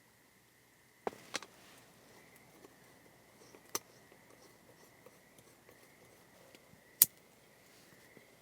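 Piezo igniter of a gas lantern clicking: four sharp clicks spread a few seconds apart, the last the loudest.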